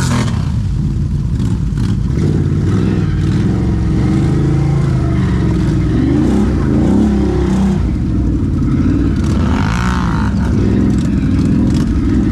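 ATV engine running under load, the revs rising and falling as the throttle is worked, with a sharper rev swell about ten seconds in.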